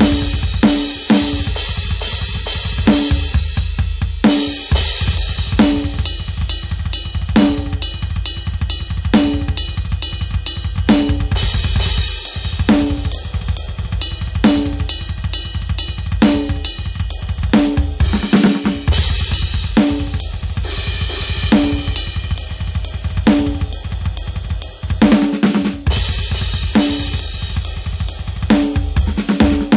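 Roland TD-17KVX electronic drum kit's sound module, fed direct through a mixer: a fast drum groove with rapid, near-continuous bass drum strokes, a regular snare backbeat and crashing cymbals. The kick pattern drops out briefly a few times.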